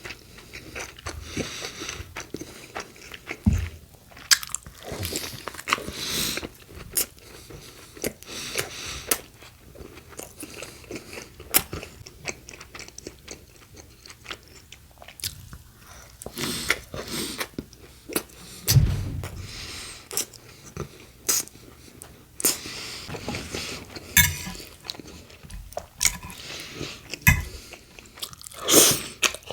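Close-miked biting and chewing of a BLT sandwich of bacon, iceberg lettuce, tomato and Italian bread: irregular crunching and crackling bites with wet mouth sounds, and a few dull low thumps.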